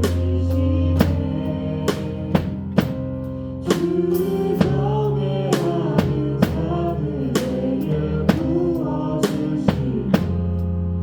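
Drum kit played on a steady beat, with bass drum and snare and rimshot hits about twice a second, over sustained keyboard and bass chords from a live worship band in an instrumental passage.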